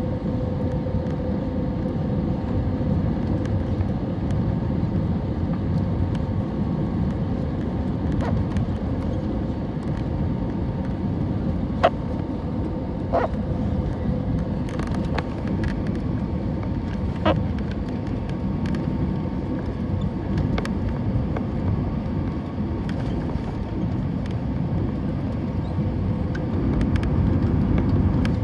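Steady cabin noise inside an Airbus A320neo airliner: a loud, even rumble of engines and airflow with a steady hum, and a few short sharp knocks or clicks near the middle.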